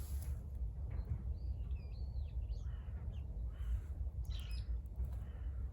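Birds calling outdoors: a run of short, curving chirps about a second in, with a few more calls near the end, over a steady low rumble.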